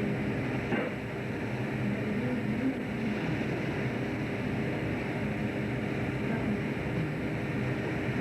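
Fishing trawler's engine running on board, a steady drone with a constant low hum.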